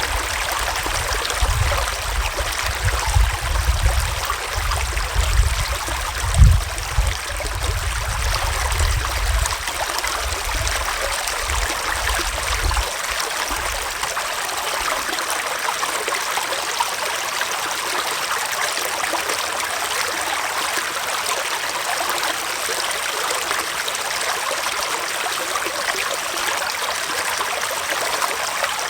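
Small forest stream flowing steadily, a constant rushing and trickling of water over its bed. During the first half a low rumble comes and goes in gusts, loudest about six seconds in.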